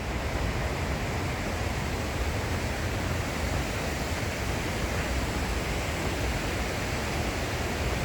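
Waterfall rushing: a steady, even roar of falling water with a heavy low rumble.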